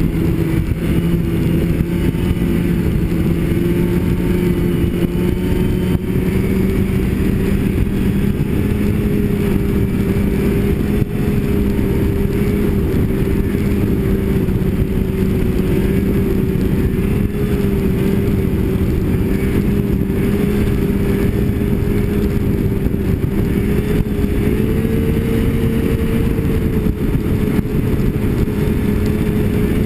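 Snowmobile engine running at a steady cruising speed, its pitch creeping up slightly in the second half, over a constant rushing noise.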